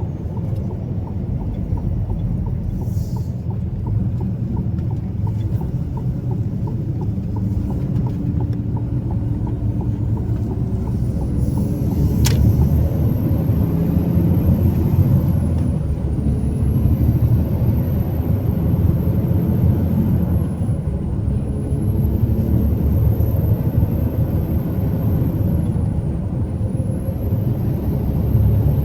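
Truck engine and road noise while driving: a steady low rumble. A faint high whine dips and recovers every few seconds, and there is a single sharp click about twelve seconds in.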